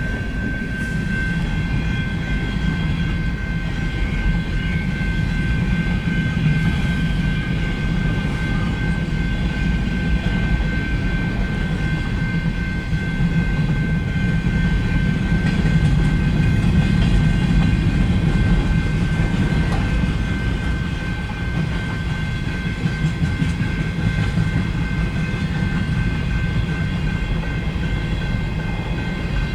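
Freight train rolling past: a steady low rumble of freight car wheels on the rails, with a thin high tone held above it throughout.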